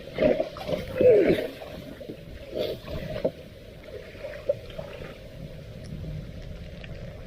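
Floodwater sloshing and splashing around a clogged storm drain as debris is cleared from it, with a few strong splashes in the first second and a half, then a steadier wash and gurgle of water.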